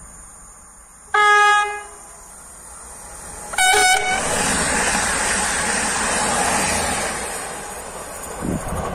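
Koleje Dolnośląskie electric multiple unit sounding its horn twice, a longer lower note then a short higher one, then rushing past on the track, the noise fading as it goes away.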